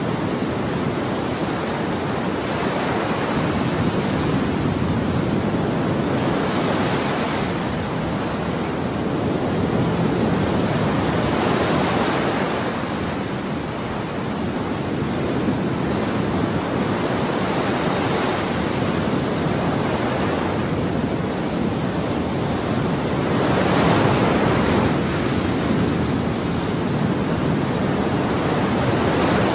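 Ocean surf: a continuous wash of waves, with louder breakers swelling and fading every several seconds.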